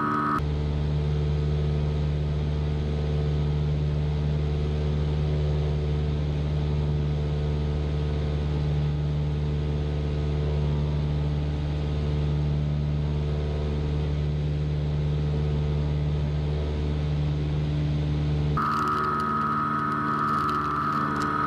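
Cessna 172's single piston engine and propeller droning steadily at climb power, heard from inside the cabin. The tone of the drone shifts slightly just after the start and again a few seconds before the end.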